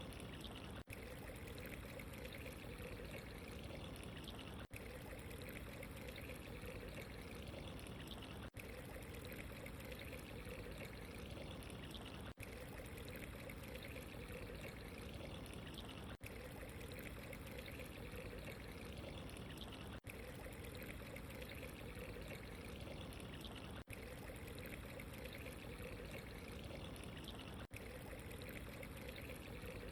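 Steady running water, an even trickling pour, with a momentary dropout about every four seconds as the recording loops.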